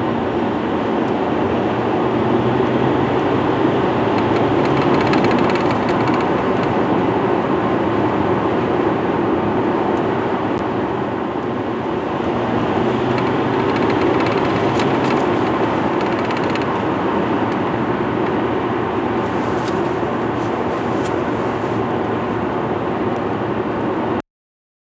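Steady running noise of a moving vehicle, an even rushing din with a faint low hum under it that swells and eases a little, cutting off suddenly near the end.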